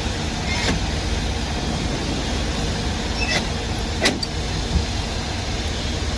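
Steady low engine rumble of fire apparatus running at the fire scene, with a few short knocks or clicks.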